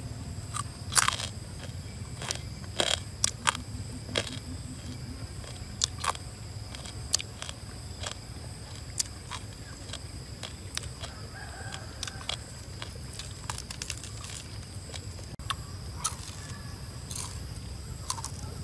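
Grilled lizard being bitten into and chewed, making sharp, irregular crunches and cracks, loudest about a second in, over a steady background hum.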